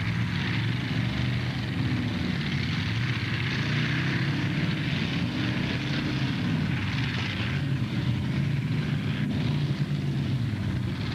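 Demolition derby cars' engines running and revving, their pitch rising and falling repeatedly as the cars push against each other, with a steady background hiss of arena noise.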